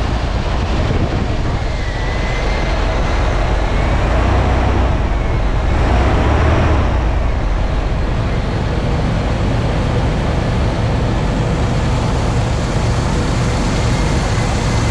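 Chevy 350 small-block V8 engine running steadily, briefly getting louder and fuller about six seconds in.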